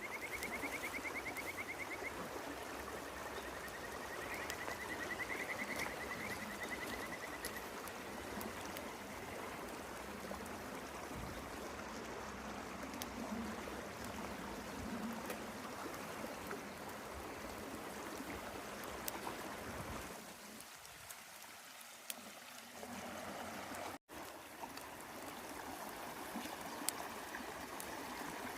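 River water flowing steadily, a continuous rushing murmur. A high, rapid trilling call sounds twice in the first few seconds.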